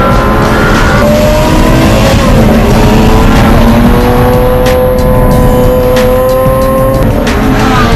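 Racing car engine sound accelerating, its pitch climbing steadily and dropping sharply at a gear change about two seconds in and again near the end.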